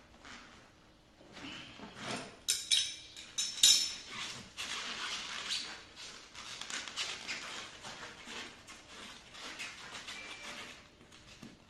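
Hands-on handling noise: a few sharp knocks and clicks a few seconds in, then continuous scraping and rustling.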